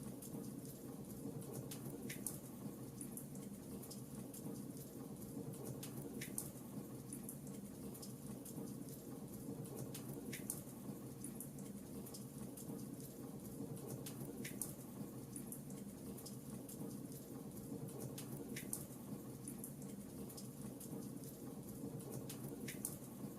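Wood fire crackling: a steady low hiss with scattered small crackles and a louder pop about every four seconds.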